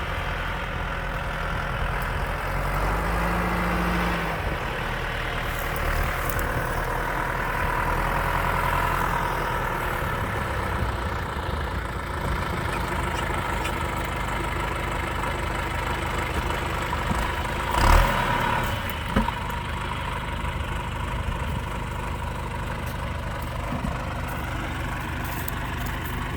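Tractor engine running steadily while digging out plants, its pitch briefly rising and falling about three seconds in. A sharp knock about eighteen seconds in is the loudest moment, followed by a smaller one.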